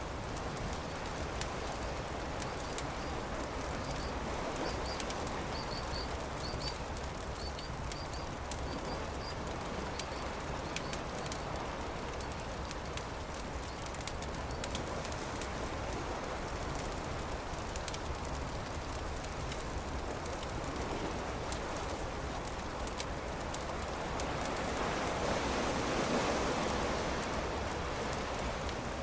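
Campfire crackling and popping over a steady rushing background that swells about 25 seconds in. Faint short high chirps come in pairs between about 4 and 10 seconds.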